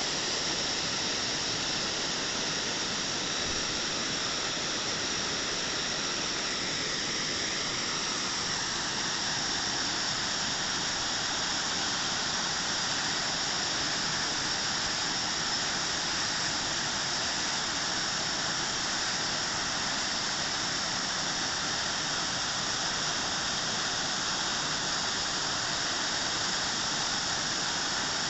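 Waterfall splashing into its pool, a steady rushing with the most energy high in pitch.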